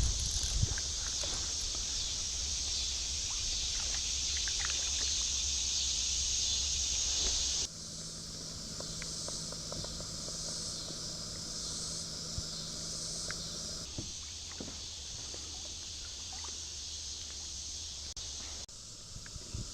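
Outdoor ambience: a steady high hiss with a few light clicks and knocks. Its character changes abruptly three times, about 8, 14 and 19 seconds in.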